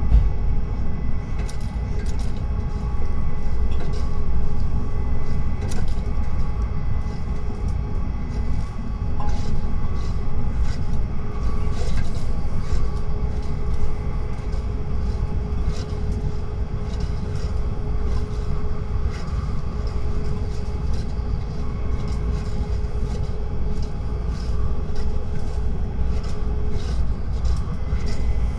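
Tokaido Shinkansen train running on the line, heard from on board: a steady low rumble with faint, steady whining tones and scattered light ticks.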